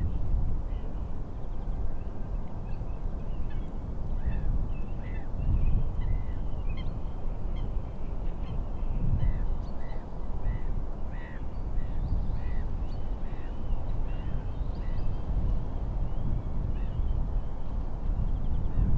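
Birds calling in short, repeated notes over a steady low rush of wind and waves.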